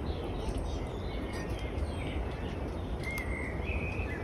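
Outdoor countryside ambience: small birds chirping now and then, with a couple of short whistled notes about three seconds in, over a steady low rumble.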